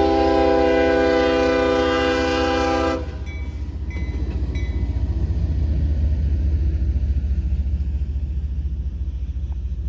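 Locomotive multi-chime air horn sounding one long chord that cuts off about three seconds in. A steady low rumble of the train running past continues after it.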